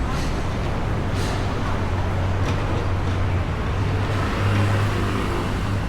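Steady road traffic noise, with a continuous low hum from passing vehicles.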